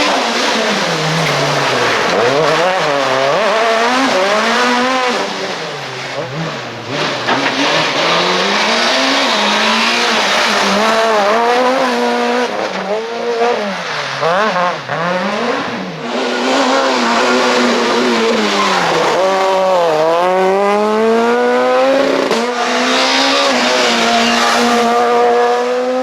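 Super 2000 rally car's naturally aspirated two-litre four-cylinder engine driven hard, its pitch climbing and falling over and over as it revs out, changes gear and comes off the throttle for corners, with a long climb in revs over the last few seconds.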